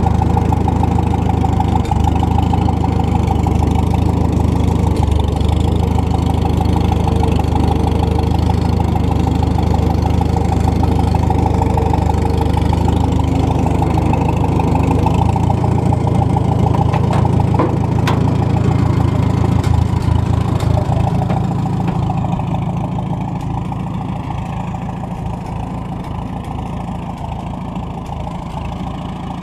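McCormick W-4 tractor's four-cylinder engine running steadily. About three quarters of the way in it becomes quieter and its note changes, with a few sharp clicks shortly before.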